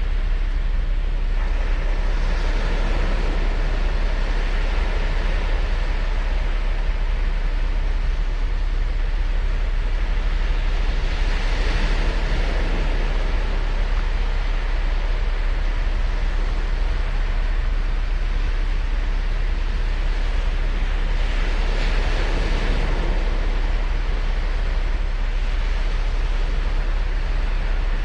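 Ocean surf on a sandy beach: a continuous wash of waves with a steady low rumble beneath. Three waves break and swell up louder, about ten seconds apart.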